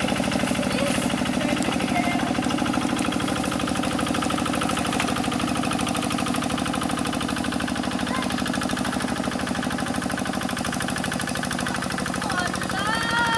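Quick G1000 two-wheel hand tractor's single-cylinder diesel engine running steadily, with a fast, even knocking beat. A short voice-like call cuts in near the end.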